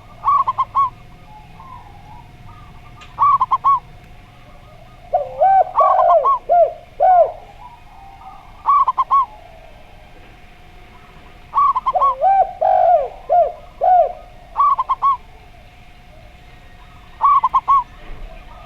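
Zebra dove cooing in short phrases of three or four quick, higher notes every few seconds. Twice, a spotted dove answers with a longer run of lower cooing notes. A faint steady tone runs underneath.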